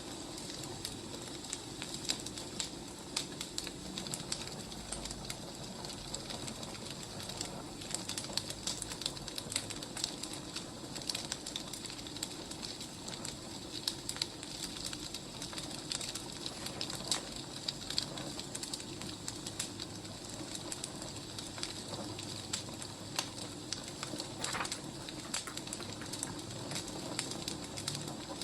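Wood fire burning: a steady soft hiss with frequent irregular crackles and pops of the logs.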